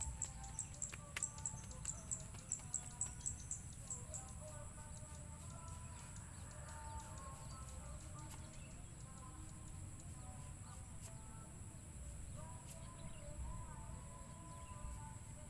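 Quiet background with a small bird chirping: quick high chirps, about four a second, for the first few seconds, then fainter, over a low rumble and faint wavering tones.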